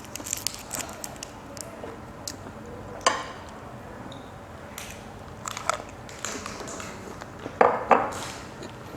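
Close-up sounds of someone biting and chewing a rice paper roll, with small wet clicks throughout and a few sharper crunches or knocks, the loudest two coming close together near the end.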